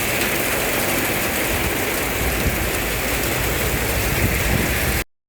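Heavy rain pouring down, a loud steady hiss with no break, that cuts off abruptly near the end.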